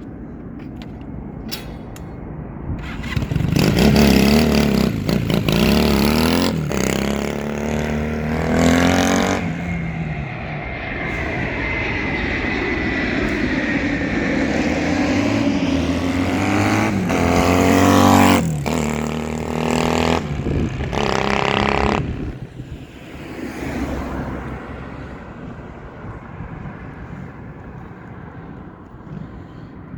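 Honda CM400 parallel-twin motorcycle engine being ridden, its pitch rising and falling through revs and gear changes. It is loudest about four seconds in and again near eighteen seconds, then fades away over the last several seconds.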